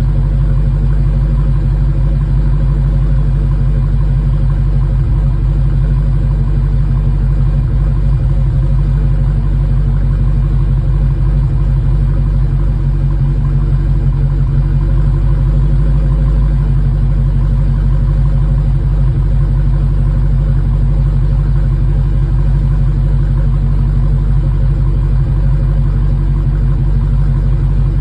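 2021 Dodge Challenger engine idling steadily as it warms up after a cold start, with an even low-pitched hum and no revving.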